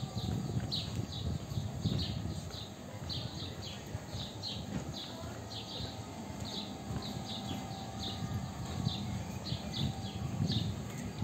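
Small birds chirping over and over, short high downward chirps two or three a second, over an uneven low rumble.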